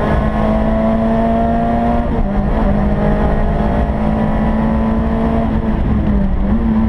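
Rally car engine under load, heard from inside the cabin over low road rumble. Its pitch climbs, drops sharply about two seconds in, holds fairly steady, and shifts again near the end.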